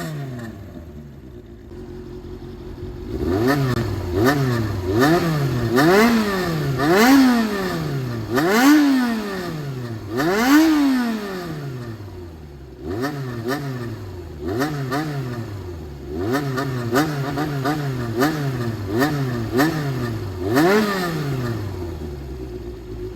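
Honda CBX400F inline-four revved through a straight-piped 4-2-1 hand-bent exhaust in a rhythmic low-rev call. It idles for the first few seconds, then the throttle is blipped over and over, the pitch rising and falling about once a second. In the second half come quicker runs of short blips, then one bigger rev near the end.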